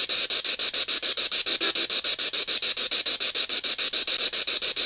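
Spirit box, a radio scanner sweeping rapidly through stations: a steady hiss chopped into even pulses, about nine a second.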